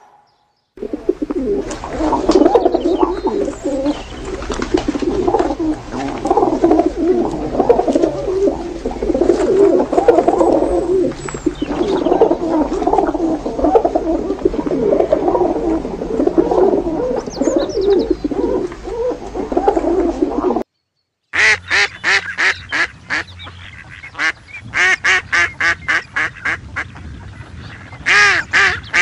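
Many pigeons cooing over one another for about twenty seconds. After a brief break, mallard ducks quack in quick runs of several calls.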